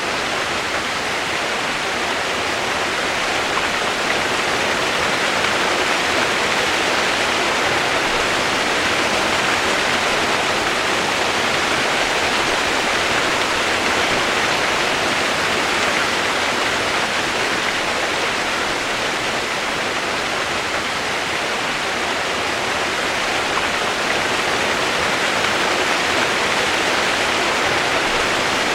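Steady rain sound used as white noise: a dense, even hiss with no single drops or changes standing out.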